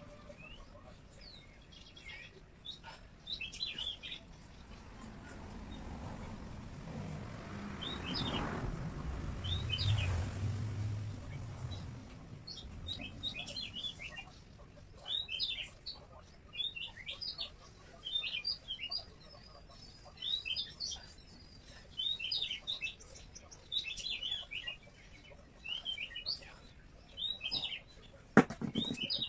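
A small bird chirping again and again, short twittering calls about once a second through most of the second half. A low rumble swells and fades in the middle, and a single sharp knock sounds near the end.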